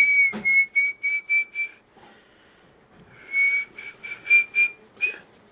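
A person whistling two phrases, each a held high note that breaks into a quick run of short pips. A brief knock sounds about half a second in.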